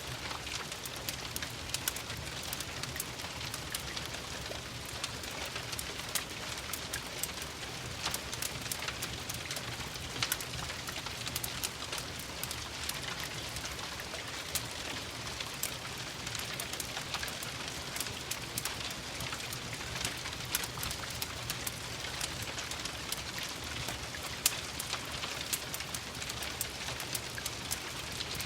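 Steady rain pattering, mixed with the frequent sharp pops and crackles of a wood fire burning in a fireplace.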